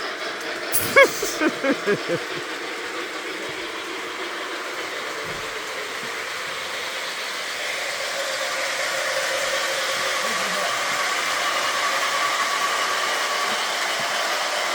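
Electric model train running on its track, a steady whirring hum that grows a little louder about eight seconds in. A young child gives a few short high-pitched vocal sounds about a second in.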